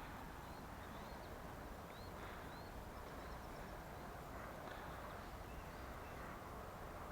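Small stream running with a steady rush, and a bird chirping in short rising notes, mostly in the first few seconds.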